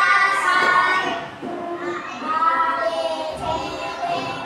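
A group of young children singing together in unison, dropping off about a second in and picking up again.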